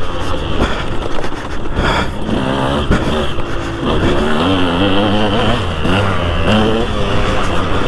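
2003 KTM 200 SX two-stroke motocross bike engine revving hard, its pitch rising and falling as the throttle opens and closes, with short dips between pulls.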